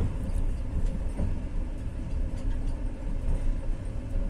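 Passenger train running along the line, heard from inside the carriage: a steady low rumble with a few faint clicks.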